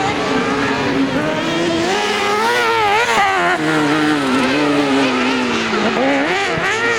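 Kart cross racing buggies' engines running hard, the pitch rising and falling over and over with throttle and gear changes, more than one engine heard at once.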